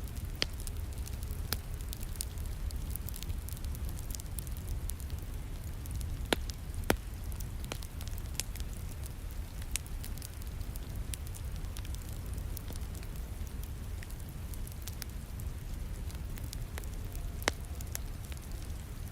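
Wood fire crackling in a fireplace: irregular sharp snaps and pops, a few louder ones, over a steady low rumble, mixed with steady falling rain.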